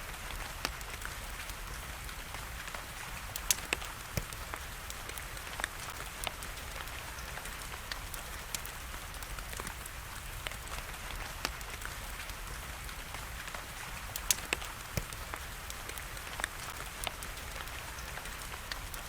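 Wood fire crackling, with sharp, irregular pops over a steady hiss of rain; the loudest pops come about three and a half seconds in and again about fourteen seconds in.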